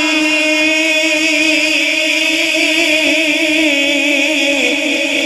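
A man's voice holding one long sung note in a chanted Punjabi religious recitation, the pitch wavering slightly and dipping near the end.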